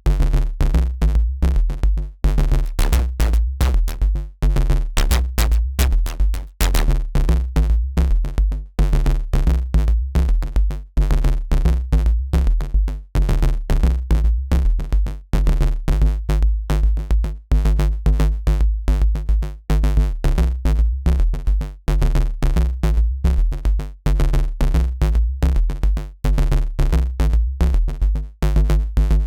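A dirty FM synth bass riff built in Bitwig's Polygrid, playing in a loop as rapid, choppy short notes over a heavy deep bass, with percussive hits; the pattern repeats about every two seconds.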